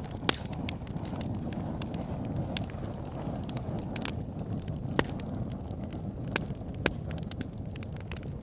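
Wood fire burning in a fireplace: a steady low rush of flames with scattered sharp crackles and pops from the logs, the loudest pops about five seconds in and twice more a little before seven seconds.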